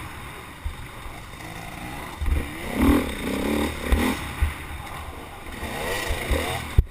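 A racing vehicle's engine revving up and down, its pitch rising and falling in surges, with low thumps of wind buffeting the microphone and a sharp click near the end.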